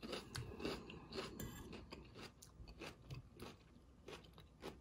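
Faint, close-up chewing of sautéed zucchini and squash: irregular soft crunches and clicks, several a second.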